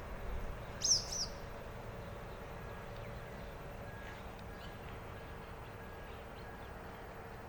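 Wild birds calling: one short, high, sharp call about a second in, then fainter scattered chirps and a faint repeated short note, over a steady low background rumble.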